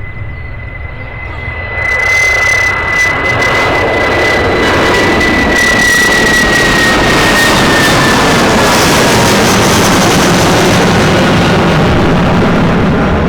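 Jet airliner's engines on takeoff: a high engine whine that slides gently lower about six seconds in, under a roar that swells sharply about two seconds in and stays loud.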